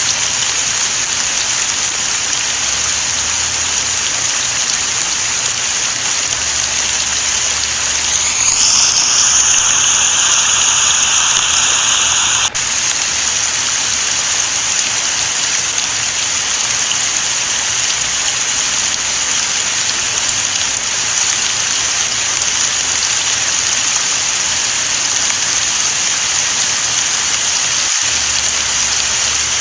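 Steady rain falling, an even hiss of drops on surfaces. About eight seconds in a louder hiss with a few steady tones rises in and then cuts off suddenly some four seconds later.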